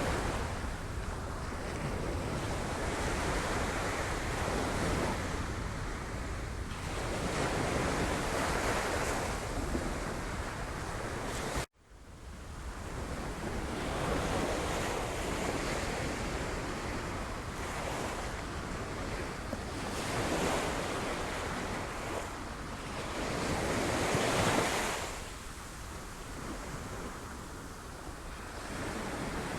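Sea waves breaking on rocks, surging and ebbing in swells a few seconds apart. The sound cuts out sharply for a moment about twelve seconds in, then resumes.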